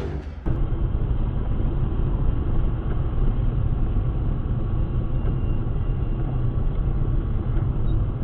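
Steady low rumble of a car driving, engine and road noise as picked up by a dashcam microphone.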